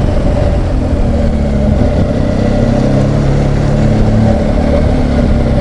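BMW R1200GS Adventure's boxer twin engine running under way, its pitch drifting a little with the throttle, under a steady rush of wind and road noise at a helmet-mounted microphone.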